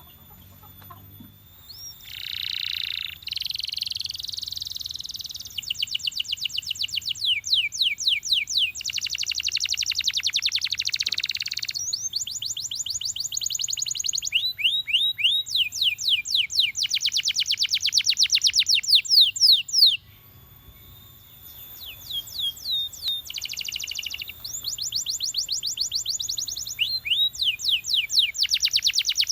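Male domestic canary singing in long phrases of fast repeated rising and falling notes, each phrase a different trill, with a short break about two-thirds of the way through.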